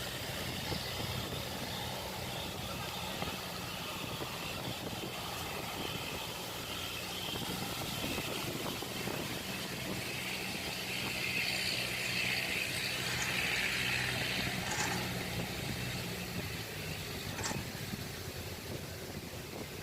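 Kubota DC-70 combine harvester's diesel engine running steadily, with a noisy mechanical hiss over it that swells somewhat in the middle.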